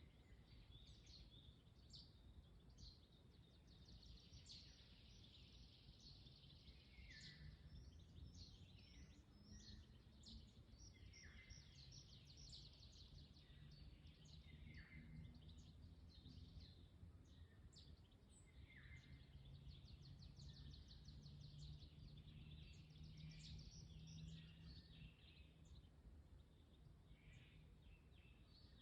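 Faint forest birdsong: several small birds chirping and trilling, with calls that slide down in pitch every few seconds, over a steady low rumble of wind.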